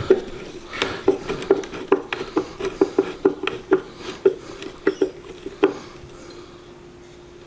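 Wooden bluebird nesting box being closed back up: a string of sharp clicks and light knocks, about two or three a second, that stops near six seconds in, over a steady low hum.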